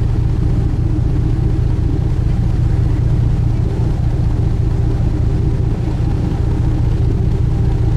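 Sightseeing cruise boat's engine running steadily at cruising speed, a constant low drone.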